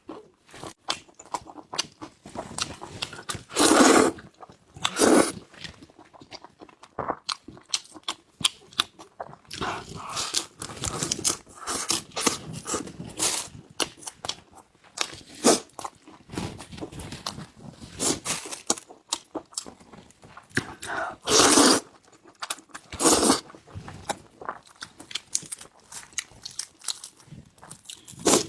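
Close-miked chewing and crunching of food, wet mouth clicks going on irregularly, with a few louder crunching bites about 4 seconds in and again near the end.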